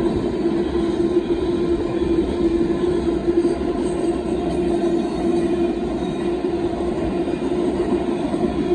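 A freight train of loaded covered hopper cars rolls past at speed: a steady, loud clatter of wheels on rail, with one steady tone held over the noise.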